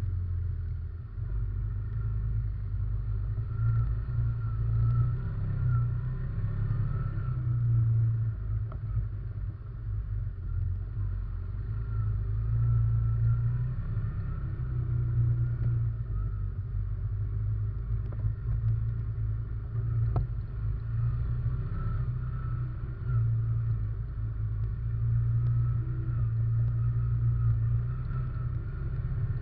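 An ATV engine running under way, picked up by a camera mounted on the quad. The engine note rises and falls as the throttle changes.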